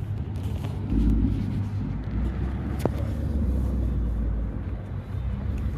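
Car engine running with a low, steady rumble that grows louder about a second in.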